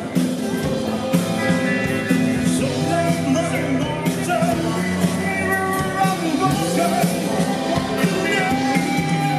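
Rock band playing live: drums, bass and electric guitar with a wavering lead melody carried over them, steady and loud throughout.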